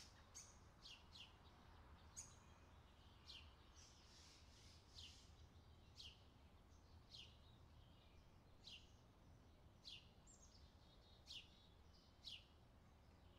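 Faint bird chirps, short quick falling notes repeated about once a second, over near silence.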